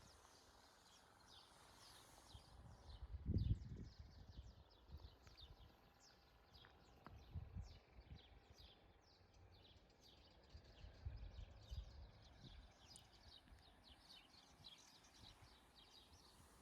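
Small birds chirping: many short, high chirps in quick succession, faint, with a few low thumps in between, the loudest about three and a half seconds in.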